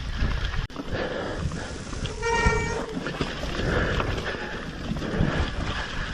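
Mountain bike riding over a wet, rough trail: a continuous rumble and rattle of tyres and bike. A little over two seconds in, a brief pitched squeal lasts under a second.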